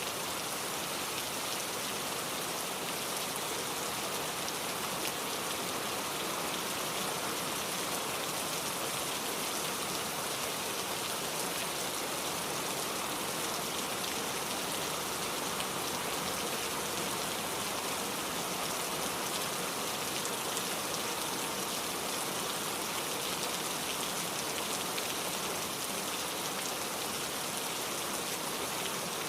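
Heavy rain falling steadily on surfaces, an even hiss of downpour with no break.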